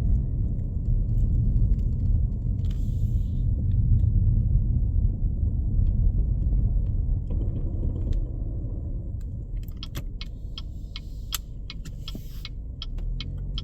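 Steady low rumble of a car driving on an unplowed, snow-covered road, heard from inside the cabin. The rumble eases in the second half, and for the last few seconds a run of sharp, irregular clicks and ticks sounds over it.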